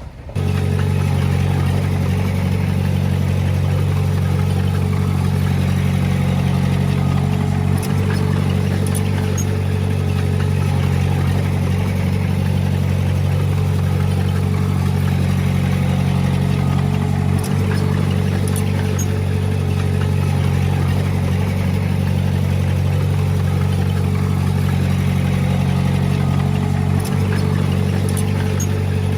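Heavy diesel engine of earthmoving equipment running at a steady speed, a constant low drone that neither rises nor falls. A faint click is heard about every nine seconds.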